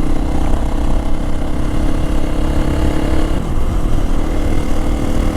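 Hero Xpulse 200 4V's single-cylinder engine running under way through an aftermarket MW Performance stainless-steel full-system exhaust, its note steady and then dropping about three and a half seconds in as the rider eases off.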